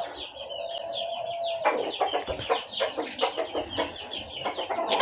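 Birds chirping in a rapid, busy chatter of short downward-sweeping chirps, with a steady tone held for the first second and a half.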